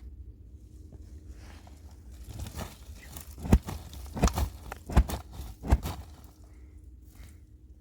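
Footsteps: a run of heavy steps between about two and six seconds in, the four loudest evenly spaced about three-quarters of a second apart, over a low steady rumble.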